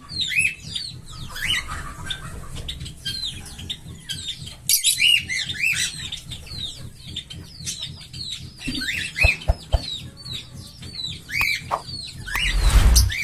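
A group of small pet parrots chattering with many overlapping short chirps and whistles. Near the end comes a loud rustling rush, like wings flapping.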